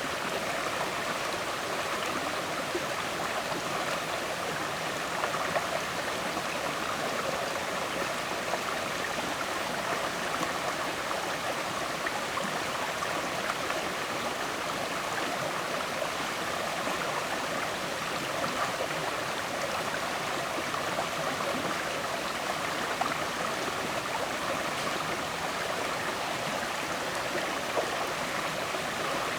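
River water flowing and gurgling over rocks, a steady rushing with small irregular splashes.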